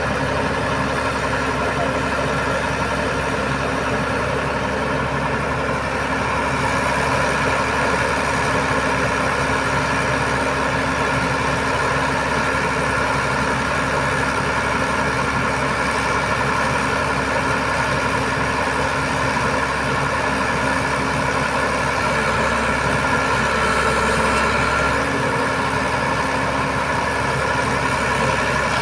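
Heavy diesel engine idling steadily, its level lifting slightly a few seconds in.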